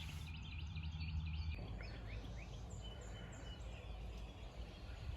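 Backyard ambience: small birds chirping repeatedly over a faint steady low background rumble.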